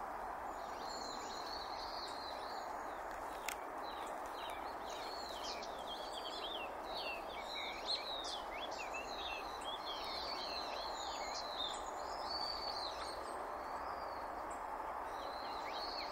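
Birds calling with many short, high chirps, thickest in the middle of the stretch, over a steady background rush of outdoor noise.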